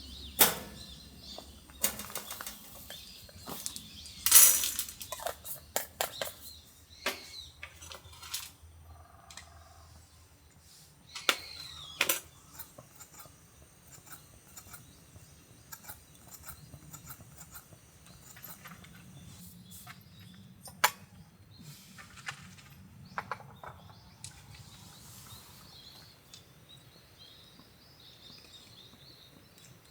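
Scattered clicks and knocks of objects being handled, louder and busier in the first half, with birds chirping faintly in the background.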